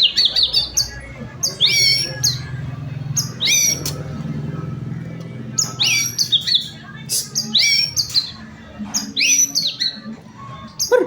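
White-rumped shama (murai batu) singing: loud, repeated phrases of quick downward-sweeping whistles and sharp chips, a burst every second or so, over a steady low hum.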